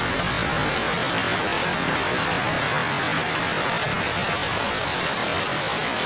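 Heavy rain pouring steadily onto foliage and wet paving, a dense, even hiss with no breaks.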